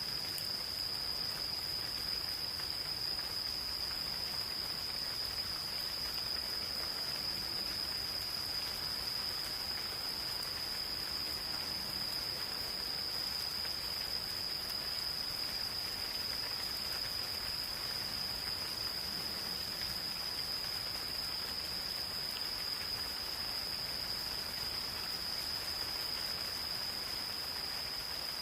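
Gentle rain falling in a forest, a steady patter, with insects calling in one continuous unbroken high trill.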